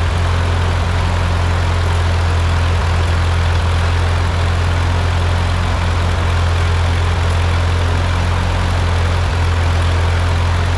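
Freshly rebuilt Ford 8N tractor's four-cylinder flathead engine idling steadily with an even low hum.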